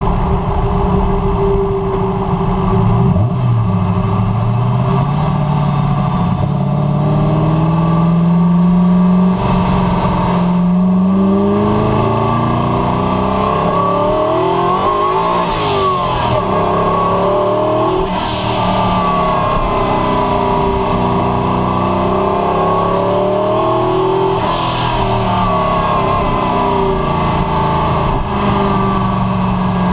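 De Tomaso Guarà's twin-turbo engine heard from inside the cabin, pulling hard through the gears: its pitch climbs in long sweeps and drops back at each gear change. There are short bursts of hiss around the middle and near three quarters of the way through.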